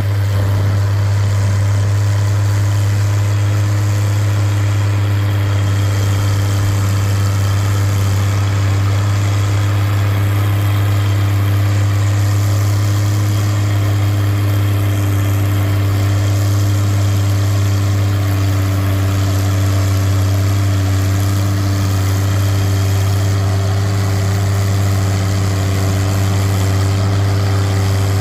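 An engine idling steadily at an unchanging speed, with a deep, constant hum.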